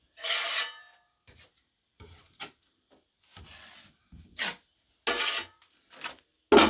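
Steel drywall knife scraping and spreading joint compound, in about eight short, separate strokes, the loudest near the end.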